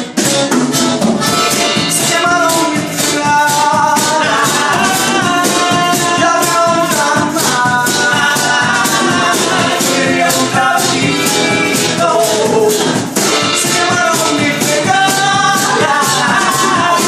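A band playing a song live, with a quick, steady percussion beat of about three strokes a second under wavering melodic lines.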